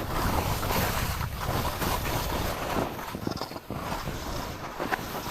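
Wind rushing over the microphone of a skier going downhill, with skis hissing and scraping through snow in uneven surges.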